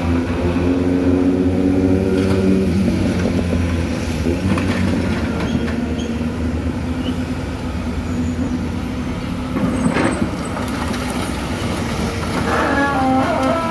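Excavator's diesel engine running steadily under load, with a sharp knock about ten seconds in.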